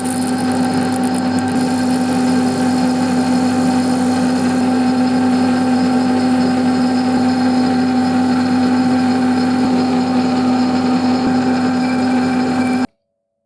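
An electric workshop machine running steadily at constant speed, with a strong even motor hum and a noisy whirr over it. It cuts in and out abruptly.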